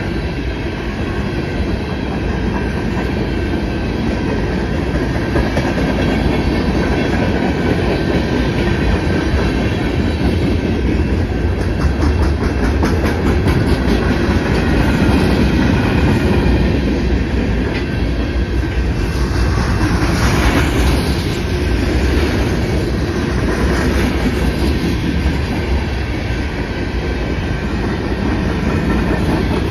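CN freight train's hopper and tank cars rolling past at close range, steel wheels clattering over the rail joints and the crossing in a steady clickety-clack.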